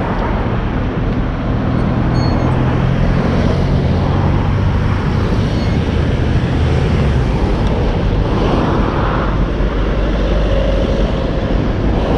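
Road traffic noise with a motor vehicle's engine running close by; its low, steady hum fades out about seven seconds in.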